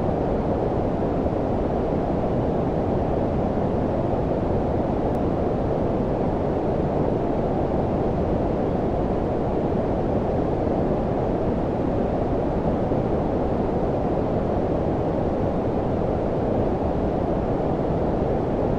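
Steady low-frequency noise of the brown-noise kind: an even, unchanging hiss with most of its weight in the bass and little treble.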